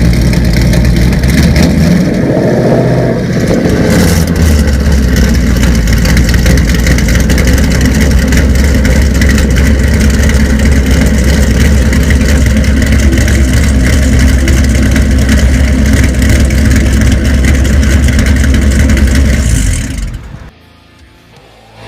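2013 Mustang GT's 5.0 Coyote V8 through Kooks long-tube headers, an off-road X-pipe and Corsa Xtreme axle-backs, running loud with a brief rev about two to four seconds in, then holding a steady low rumble. The sound drops away sharply near the end.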